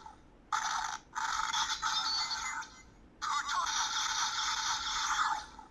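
Tinny electronic sound clips played through the small speaker of a Kamen Rider Putotyra lockseed candy toy, in three bursts (a short one, then two longer ones) as its function is triggered.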